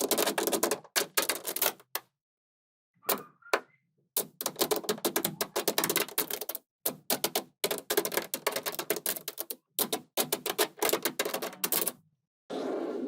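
Small magnetic balls clicking and clattering against each other in quick runs of sharp clicks as they are handled and snapped together, in bursts broken by short silent gaps.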